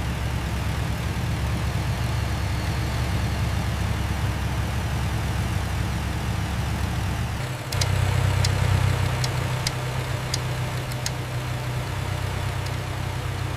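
Car engine idling steadily on a test run, a low hum. About eight seconds in, the hum shifts and grows louder, and a handful of sharp ticks follow over the next few seconds.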